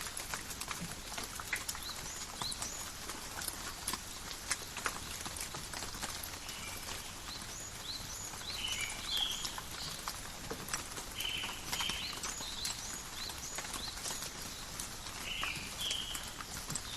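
Steady rain in a forest: an even hiss with many separate drops ticking and pattering on leaves. From about seven seconds in, short high chirps come through over the rain.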